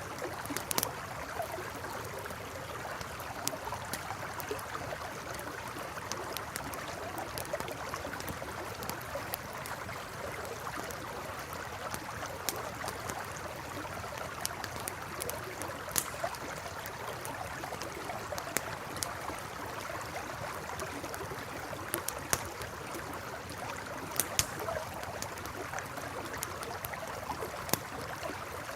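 Campfire crackling beside a flowing river: a steady rush of running water, with sharp pops and snaps from the fire scattered irregularly throughout.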